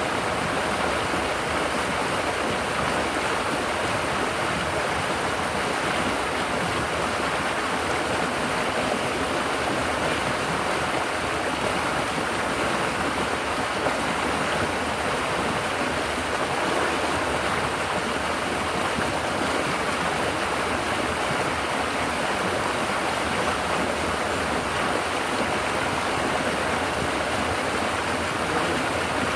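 River water flowing and babbling over rocks and against the bank, a steady, unbroken rushing.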